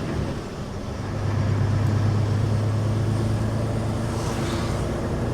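Semi truck's diesel engine droning inside the cab while driving, with road noise. The engine note dips briefly near the start, then picks up to a steady, lower-pitched drone.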